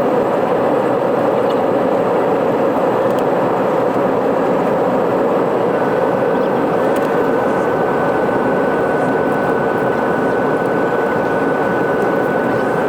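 Airliner cabin noise on the approach to landing: the steady, loud rush of the jet engines and airflow past the fuselage. A thin, steady high whine joins it about six seconds in.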